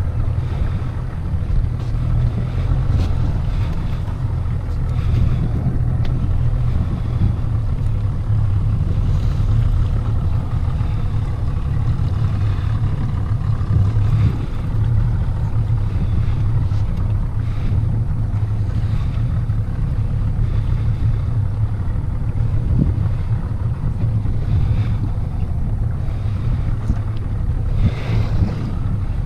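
Small fishing boat's motor running steadily at low speed, a low even drone under wind and water noise, as the boat follows a large hooked fish.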